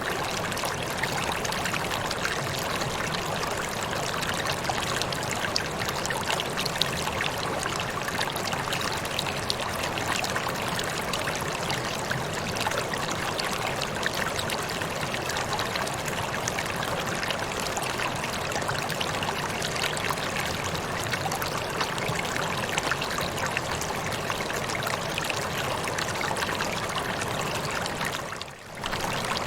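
Waterfall: a steady rush of falling water that briefly dips in level and comes back about a second before the end.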